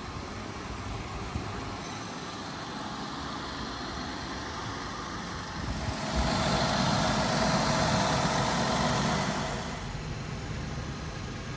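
Ford Mondeo ST24's V6 engine running at idle. Just past the halfway mark it gets noticeably louder and fuller for about four seconds, then settles back to idle.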